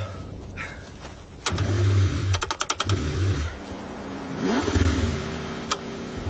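Cold car engine cranking in uneven bursts, struggling to start, with a quick run of clicks a little over two seconds in.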